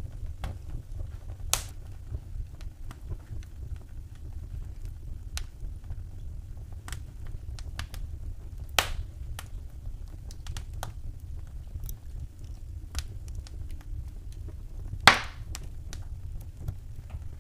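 Wood fire crackling in a fireplace: irregular small snaps over a steady low rumble, with three louder pops, the loudest a sharp crack near the end.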